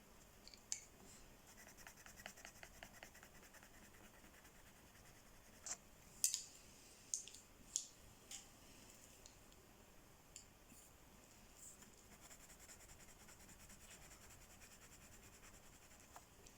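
Faint coloring on paper: a run of quick, light strokes, then a few sharp clicks around the middle, the loudest about six seconds in.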